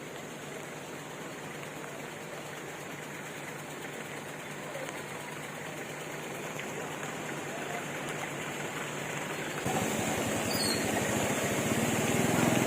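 Creek water rushing: a steady noise that slowly grows louder and jumps up suddenly near the end. The flow is still running high after a tropical storm.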